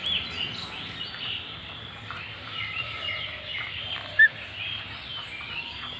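Indian ringneck parrot chirping, among a continuous chatter of high, quick calls, with one short, loud call about four seconds in.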